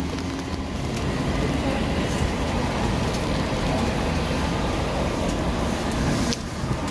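Steady rumble and low hum heard from inside a vehicle's cabin, with no voices.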